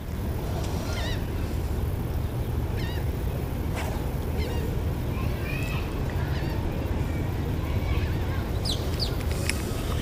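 A few short bird calls, scattered through, over a steady low outdoor rumble.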